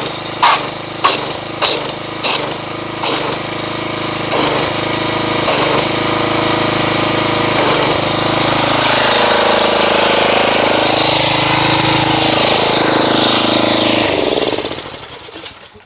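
Gas pressure washer engine running while its spray churns soap in a bucket of water into suds. Its pitch sags and recovers midway, and it stops near the end. Several sharp clicks in the first few seconds.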